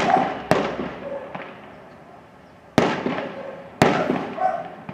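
Aerial fireworks shells bursting over a city: three sharp bangs, about half a second in, near three seconds and a second later, each followed by a fading, echoing tail.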